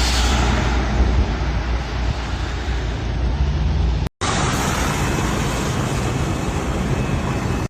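Steady outdoor street ambience, a rumble and hiss of the kind city traffic makes, cut off briefly about four seconds in and then picking up again.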